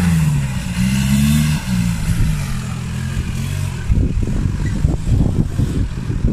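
An off-road 4x4's engine revving up and down as it works through a rock-crawling obstacle. After about four seconds it gives way to an uneven low rumble with irregular knocks.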